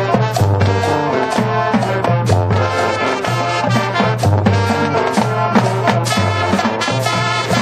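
A marching band playing its field show: brass section with drums, a driving rhythmic beat with strong low brass notes and a Latin/swing feel.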